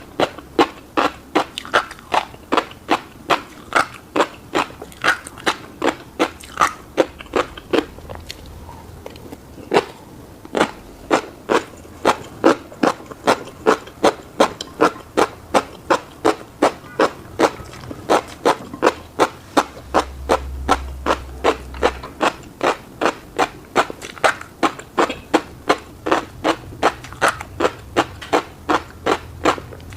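Close-miked chewing of a fish roe and rice bowl: wet mouth clicks and roe popping, about two to three a second, with a short pause about eight seconds in.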